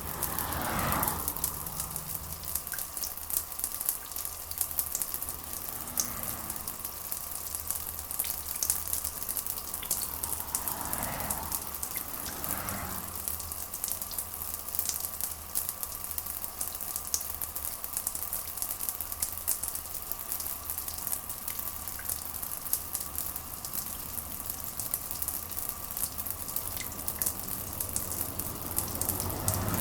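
Steady rain: a dense, even patter of drops over a low hum, with a few soft swells that rise and fade about a second in and again around eleven to thirteen seconds in.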